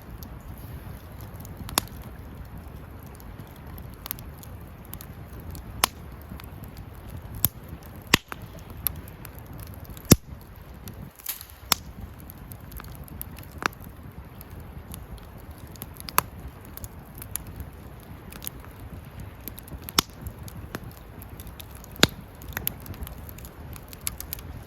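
Wood campfire crackling, with sharp pops every second or two over a steady low rumble of burning.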